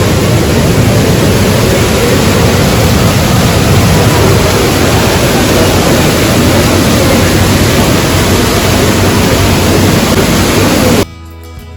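Waterfall pouring: a loud, steady rush of water. It cuts off abruptly near the end, where guitar music begins.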